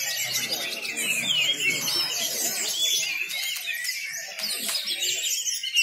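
Many caged songbirds singing at once in a dense chorus of quick whistles and chirps. A murmur of people talking runs underneath for the first half and then fades.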